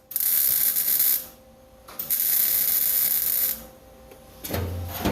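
Welding arc crackling in two short bursts, about a second and a second and a half long, as tack welds are laid to hold a steel truck floor pan in place. A short low thud comes near the end.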